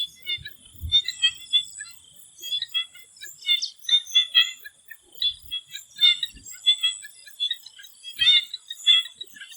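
Swamp frogs calling: many short croaks repeating irregularly and overlapping, over a steady high-pitched hum.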